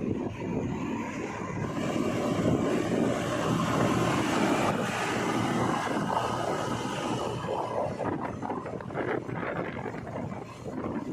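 Heavy diesel machinery running steadily at work, a little louder in the middle and easing slightly toward the end.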